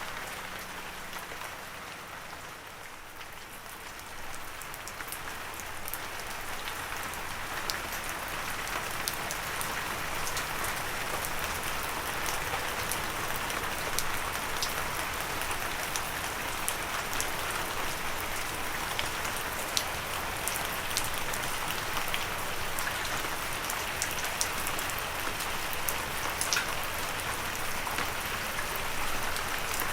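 Gentle rain falling steadily: an even hiss with many individual drops ticking sharply over it. It eases slightly a few seconds in, then fills out again.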